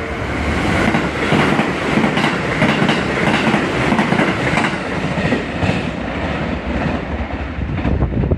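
Electric train running through a station, its wheels clattering over the rail joints. The noise builds over the first second and then stays loud.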